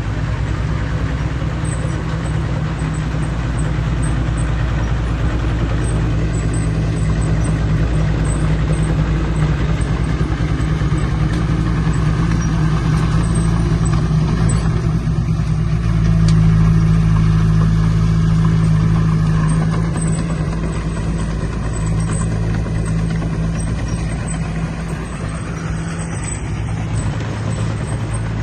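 Heavy earthmoving machine's diesel engine running steadily, swelling louder about sixteen seconds in for a few seconds, then settling back.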